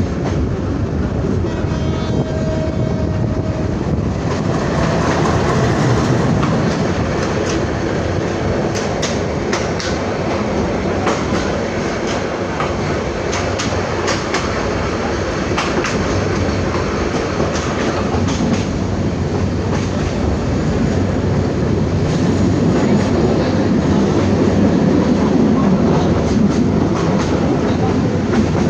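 Passenger train running along the track: a steady rumble with the clickety-clack of its wheels over the rail joints, the clicks thickest around the middle.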